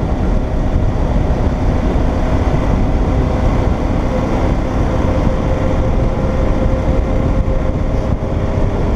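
Motorcycle riding at steady road speed: a constant engine drone under heavy wind rush on the microphone.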